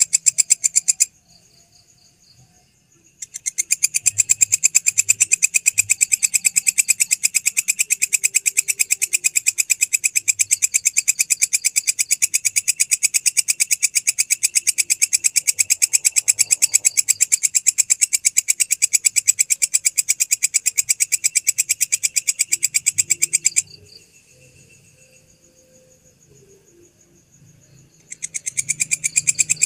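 A belalang, a singing grasshopper-type insect, calling with a loud, rapid, evenly pulsed buzzing trill. It breaks off twice, briefly about a second in and for several seconds in the last quarter, and each time starts again abruptly. During the pauses a much fainter trill of the same kind continues.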